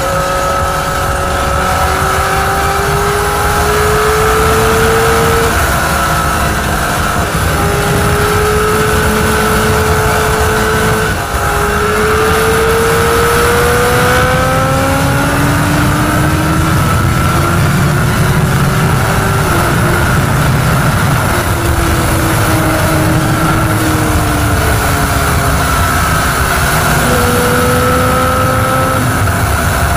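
Honda CBR1000RR Fireblade's inline-four engine pulling at highway speed, its pitch climbing and falling as the throttle opens and closes, with a brief dip about eleven seconds in. Wind rushes over the microphone throughout.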